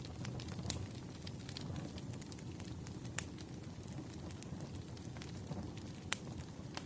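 Campfire crackling: a steady low rumble of burning wood with scattered sharp pops, the loudest about three seconds in.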